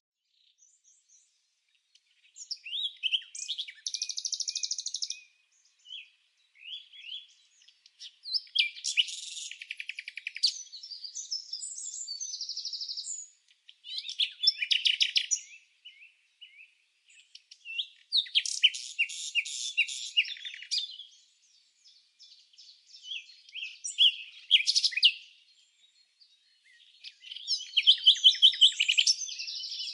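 A bird singing in repeated phrases of rapid chirps and trills, each phrase one to three seconds long, with short pauses between them.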